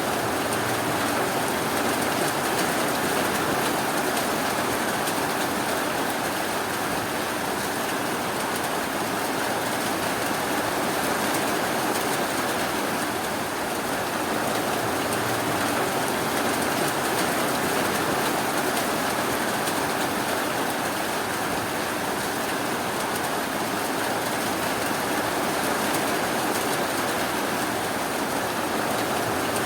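Steady rainfall: an even, unbroken hiss of rain with no thunder or other events.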